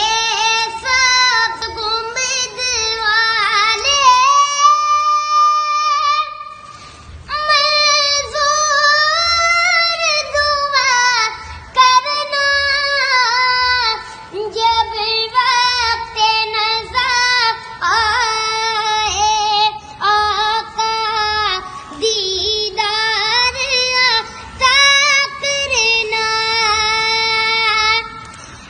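A child singing a devotional song solo in a high voice, with long ornamented held notes that bend and waver, over a faint regular low beat.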